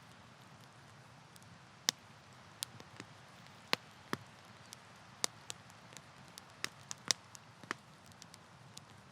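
Wood campfire crackling: irregular sharp pops and snaps, about a dozen of them, over a soft steady hiss.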